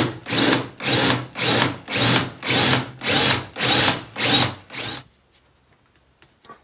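Hand tool cutting into a wooden handle in steady, even strokes, about two a second, which stop about five seconds in.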